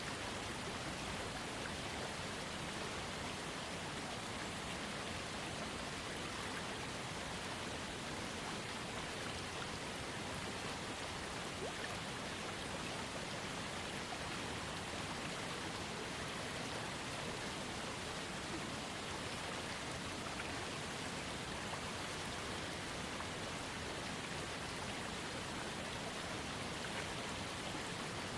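Waterfall and trickling creek: a steady, even rush of falling and running water.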